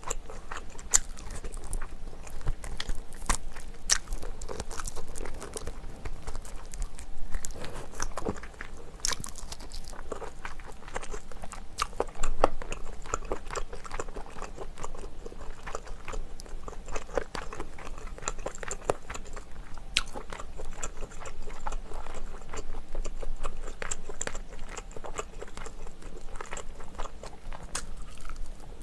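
Close-miked eating of spicy braised chicken on the bone: chewing and biting, with many small, sharp mouth clicks.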